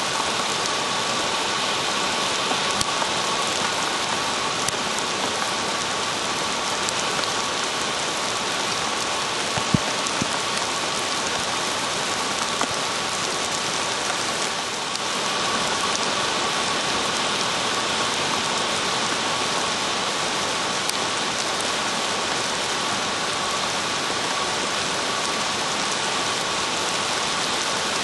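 Steady rain falling, an even hiss of drops throughout, with a faint steady tone in the background and a single sharp knock about ten seconds in.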